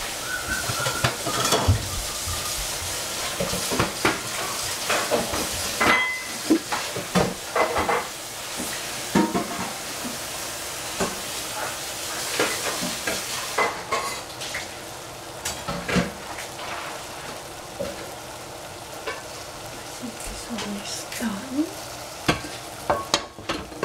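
Shrimp and capsicum strips sizzling and frying in a stainless steel saucepan over a gas flame: a steady hiss with frequent sharp pops and clicks.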